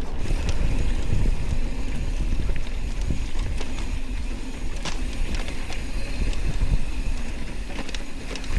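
Steady low wind rumble on the microphone, with scattered knocks and rattles throughout.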